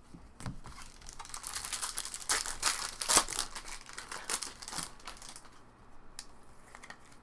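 Foil wrapper of a trading-card pack crinkling and tearing as it is opened. There is a run of crisp rustles from about one to five seconds in, then fainter handling rustles.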